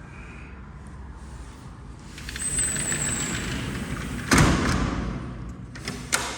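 A door sliding along its track with a brief high squeak, then banging shut, followed by a second smaller knock near the end.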